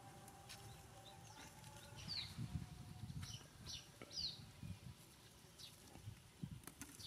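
A small bird chirping: short, quick downward-sliding chirps repeated every second or so. Soft low thuds sound beneath them.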